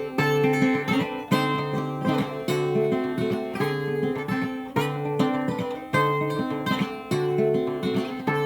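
Acoustic guitar strummed in a steady rhythm, changing chords, as an instrumental break between sung verses of a folk song.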